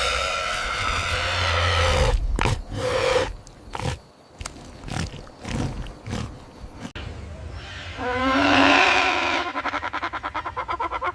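Animal calls: a long drawn-out pitched call, then several short calls. After a sudden break comes a new pitched call, followed near the end by a fast run of pulsing calls.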